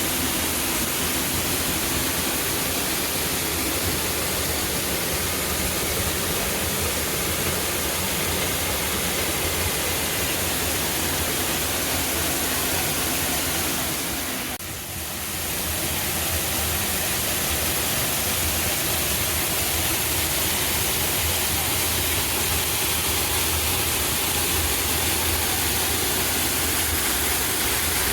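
Waterfall: a steady, even rush of falling water that dips briefly a little past halfway.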